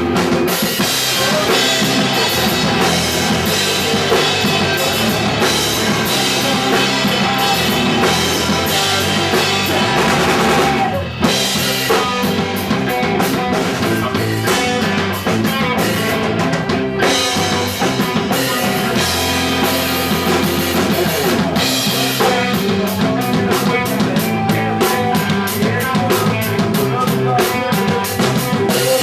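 Punk rock band playing live at full volume, the drum kit driving hard with kick, snare and rimshots under the full band. The music stops briefly about eleven seconds in and again near seventeen seconds before pushing on.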